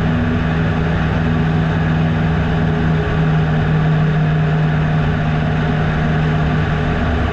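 The 150-horsepower four-cylinder Lycoming engine and propeller of a Piper Super Cub floatplane, heard from the cockpit, running steadily at cruise power. Near the very end the engine note shifts lower.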